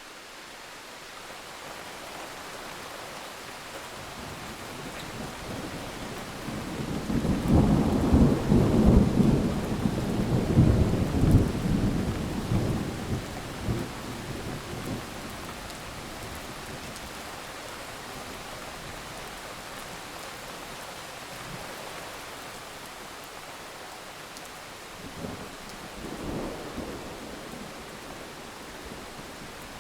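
Steady rain with a long roll of thunder building about six seconds in, loudest for several seconds and fading out, then a fainter rumble near the end.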